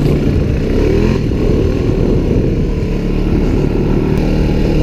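ATV engine running under way, its pitch rising in a rev during the first second, over a steady low rumble.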